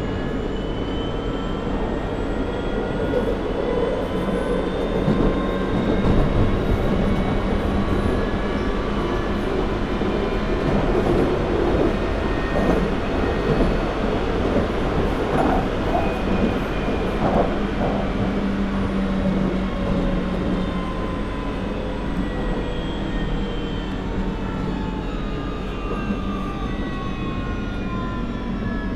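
London Underground 2009 Stock train's traction motors whining under a steady wheel-and-track rumble, the whine rising in pitch over the first half and falling in the second as the train gathers speed and then slows. A few brief knocks from the running gear come through about halfway.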